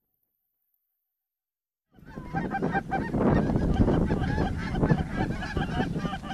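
Silence for about two seconds, then a large flock of geese honking continuously, with many short calls overlapping.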